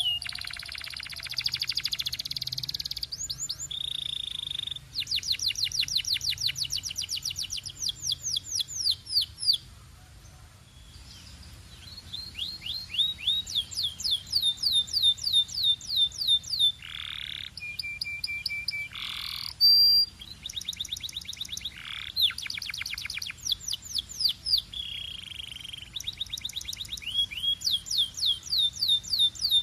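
Belgian canary singing: long runs of rapid, evenly repeated high notes and rolling trills, broken by a short lull about ten seconds in, with a few lower sliding notes between phrases.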